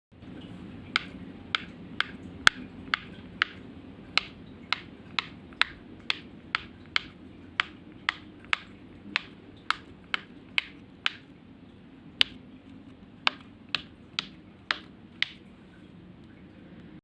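Silicone pop-it fidget toy bubbles pressed one after another, each giving a sharp pop, about two a second, with a few slightly longer gaps.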